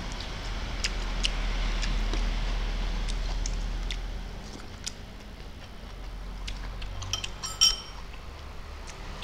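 Close-up eating sounds: a man chewing rice and vegetables eaten with his fingers, with many small mouth clicks and lip smacks. About three quarters through comes one louder click with a brief ring, and a low steady hum runs underneath.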